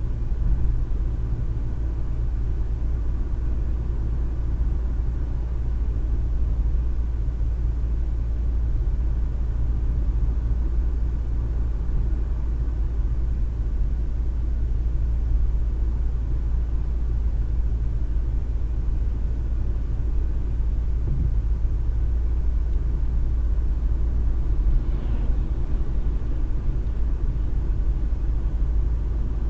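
Car driving at road speed, heard from inside the cabin: a steady low rumble of tyre, road and engine noise.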